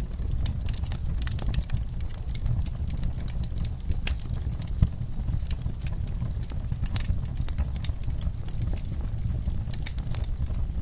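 Wood fire in a fireplace crackling, with irregular snaps and pops over a steady low rumble; one sharper pop stands out about five seconds in.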